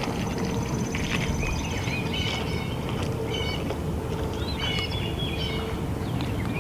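Wind buffeting the microphone with a steady low rumble, while birds give short, repeated high chirping calls every second or so.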